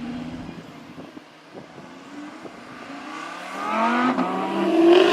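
Sports car engine accelerating. A low engine note fades away, then about three seconds in a rising engine note builds and grows louder toward the end.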